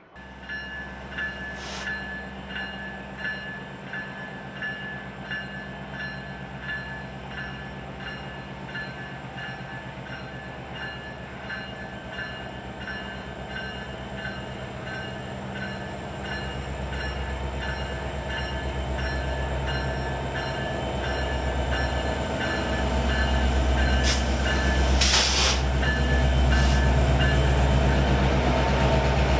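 Diesel locomotives of a BNSF freight train approaching, their low engine drone growing steadily louder through the second half. A ringing tick repeats about twice a second through the first half, and a short rush of noise comes near the end.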